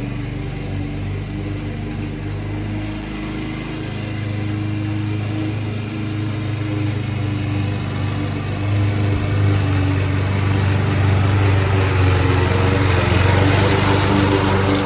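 Mountfield Empress 16 lawn mower's petrol engine running steadily, getting a little louder about halfway through. It is burning off old oil, which the owner thinks got into it when the mower was tipped up the wrong way.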